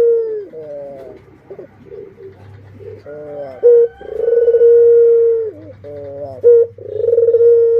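Barbary dove (burung puter) cooing: a short sharp note followed by a long drawn-out coo that drops away at the end, repeated twice, about three seconds apart.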